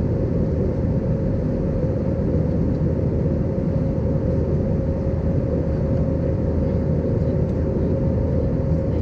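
Steady cabin drone of an Airbus A320 in climb: engine and airflow noise heard from inside the cabin, an even low rumble with one constant hum running through it.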